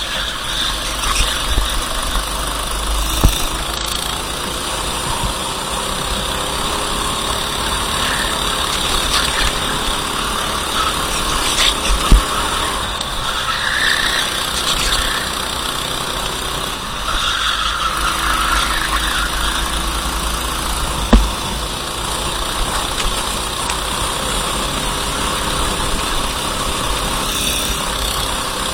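Go-kart engine running through a lap, its pitch rising and falling with the throttle, over a steady rush of noise. Three sharp knocks stand out along the way.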